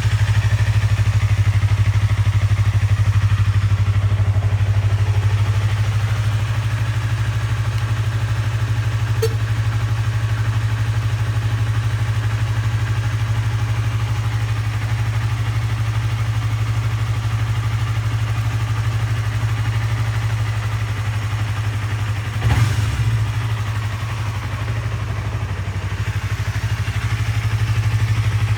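Yamaha YZF-R25's 250 cc parallel-twin engine idling steadily through an aftermarket WR'S titanium muffler, with one brief sharp sound about three-quarters of the way through.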